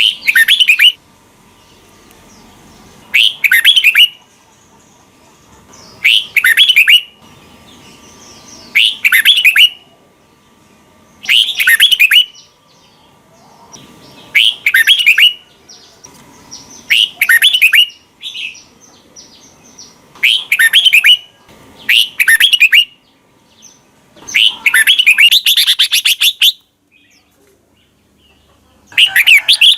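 Red-whiskered bulbul singing: short, loud, warbling phrases repeated about every three seconds, with one longer phrase near the end.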